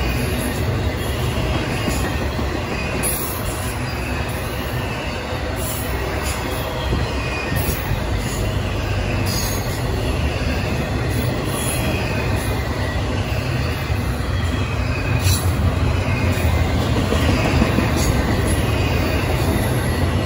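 Double-stack intermodal freight train's well cars rolling past: a steady rumble of steel wheels on the rails with sharp clicks every few seconds, growing a little louder near the end.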